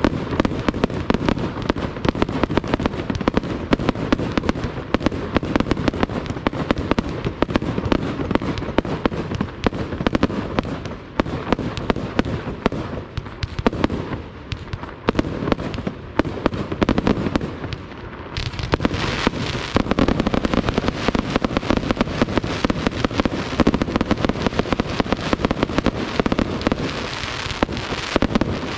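Fireworks display: a dense, continuous barrage of shells and firecrackers going off in rapid succession. About eighteen seconds in, it grows denser, with a hissing crackle joining the bangs.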